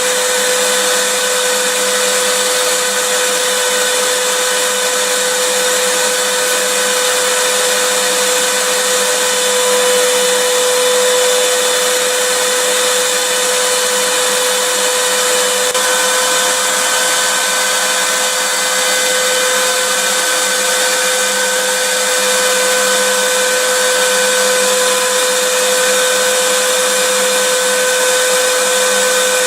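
Vacuum cleaner running steadily: an even, loud rushing hiss with a constant motor whine, unchanging throughout.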